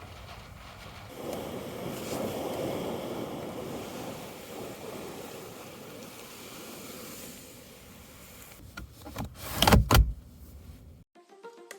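Strong gale gusting against a parked camper van, a gust swelling about a second in and slowly easing off. Near the end a few loud thumps, then background music starts.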